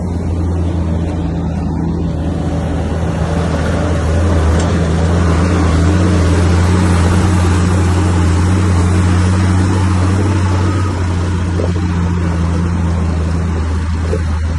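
Bulldozer's diesel engine running steadily under load, a deep hum with a rushing noise that builds a few seconds in and eases off after about ten seconds.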